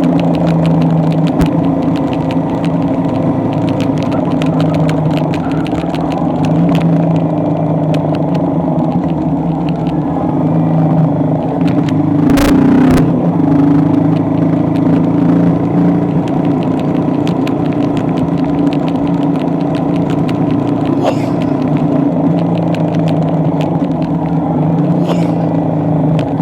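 A motor vehicle's engine running steadily with a low rumble, its pitch drifting slightly up and down, with many light ticks over it. A short loud noise breaks in about halfway through.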